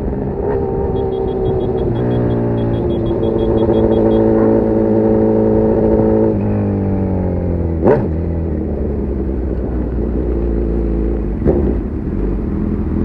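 Honda CB1000R's inline-four engine running through a full GP Lougan RS Evolution aftermarket exhaust. The engine note steps up about two seconds in, holds steady, then falls away; a little past the middle and again near the end it gives a quick sharp rev blip.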